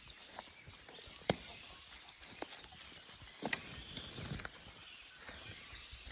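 Outdoor ambience with faint high chirping and several sharp clicks or snaps, the loudest about a second in and a few more clustered around the middle.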